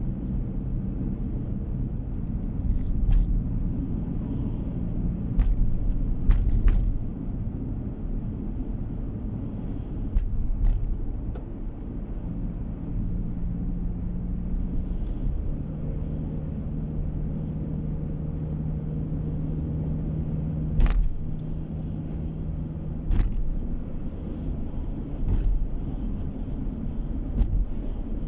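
A car driving along a road, heard from inside the cabin: a steady low engine and tyre rumble whose engine tone shifts a few times, with short rattles and knocks every few seconds.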